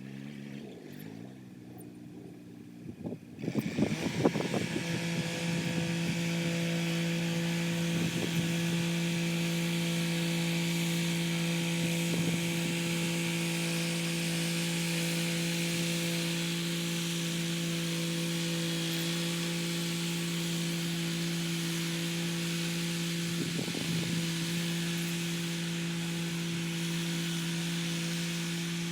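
Kubota SL35 tractor running a rotary tiller. Quieter at first with the engine note shifting, then about three and a half seconds in a loud clattering burst, after which it settles into a steady hum with a few brief clatters.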